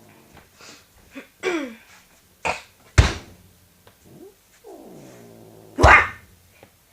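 Domestic cat growling: a short falling cry, then a long low moan dropping in pitch, broken by three sharp hissing spits, the loudest sounds, about 2.5, 3 and 6 seconds in. It is an angry cat's warning growl.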